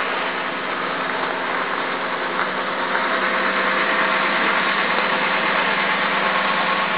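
A car engine idling: a steady low hum under a constant hiss, growing slightly louder about three seconds in.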